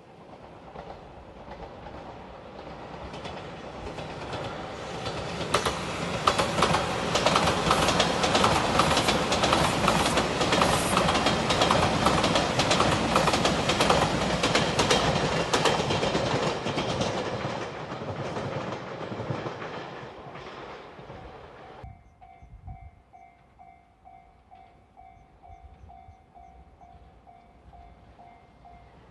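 JR Shikoku 2700 series diesel train in Anpanman livery passing close by. Its engine and wheel clatter on the rails build up, stay loud for about ten seconds, then fade. About three-quarters of the way through, the sound cuts abruptly to a level crossing warning bell ringing in a fast, even repeat.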